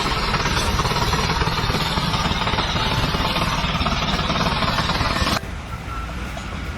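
Loud, steady machinery noise with a rapid rattle, cutting off abruptly about five seconds in.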